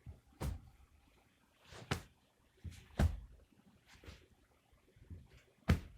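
A cat playing with a person's foot: irregular soft thumps and scuffs, about seven of them, the loudest about three seconds in and another just before the end.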